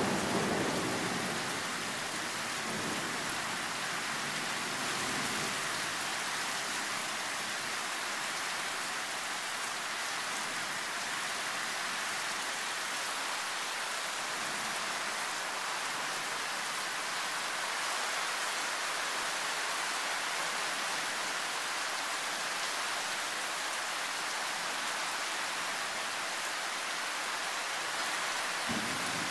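Heavy rain falling steadily, described as quite loud, with the low rumble of a thunderclap dying away in the first couple of seconds.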